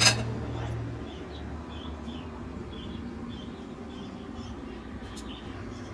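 A sharp click at the very start, then a small bird chirping over and over, a short high chirp about every half second.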